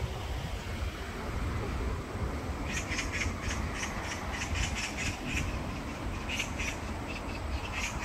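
A bird calling in a quick run of short repeated notes, about four a second, starting a little under three seconds in, over a steady low background rumble.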